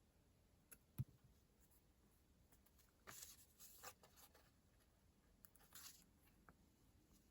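Faint paper and stationery handling on a planner: a soft knock about a second in, then short scratchy rustles around three to four seconds and again near six seconds.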